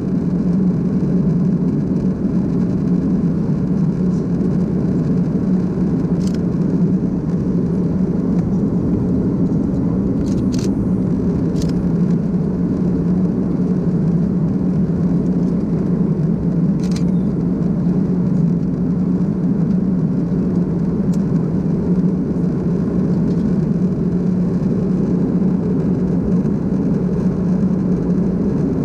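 Steady cabin noise of an Airbus A330-200 in flight: a continuous drone of engines and airflow with a strong low hum. A few faint clicks are heard over it.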